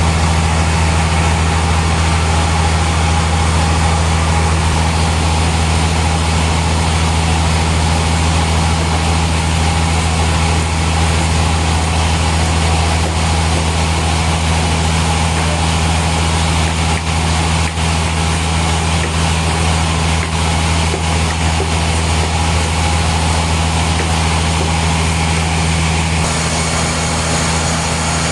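Steam-powered sawmill machinery running with a steady, loud low drone and hum, shifting slightly near the end.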